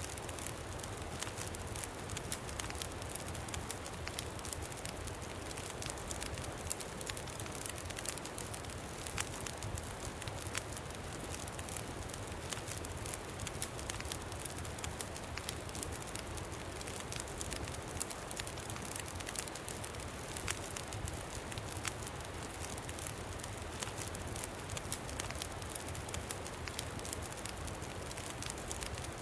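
Campfire crackling, with frequent small sharp pops, over a steady low rumble of wind.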